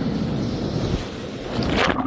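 Steady rush of a mountain stream's flowing water, swelling briefly louder near the end.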